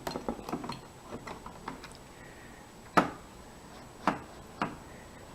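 Light clicks and knocks of the plastic parts of a Fleischmann model railway turntable being handled and fitted back together, with one sharp click about three seconds in and two more soon after.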